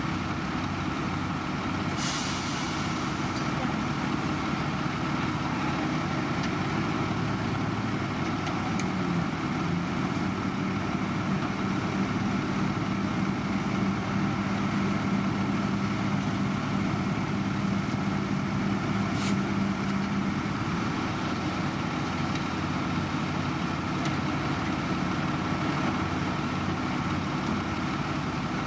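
Heavy diesel construction machinery running steadily. About two seconds in there is a short sharp hiss like an air-brake release, and a steady drone tone runs from about nine to twenty seconds.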